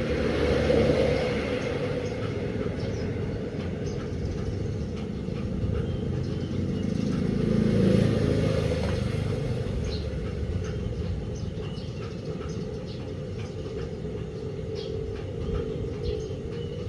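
A 16 kg DELTA washing machine running: a steady low rumble that swells louder twice, about a second in and again around eight seconds, with faint scattered ticks.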